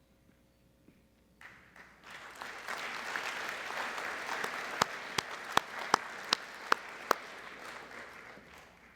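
Audience applauding, starting about a second and a half in and fading out near the end. Midway, a run of about seven loud, sharp claps from one pair of hands close by stands out, roughly three a second.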